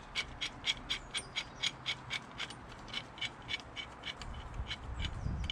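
Ratchet spanner clicking in an even run of about three clicks a second while undoing the exhaust fixings on the tractor's cylinder head. A low rumble builds near the end.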